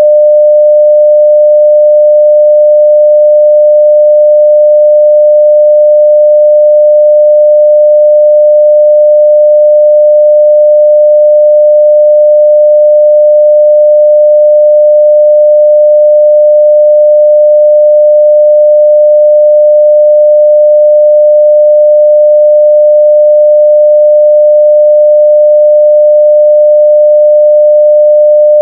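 Continuous 600 Hz sine-wave test tone at full level, one steady pitch with no change.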